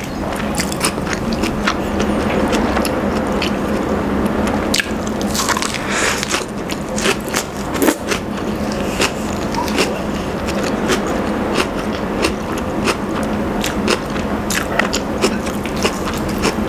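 Chewing and biting lettuce salad and rotisserie chicken, with a steady run of short sharp clicks and crunches.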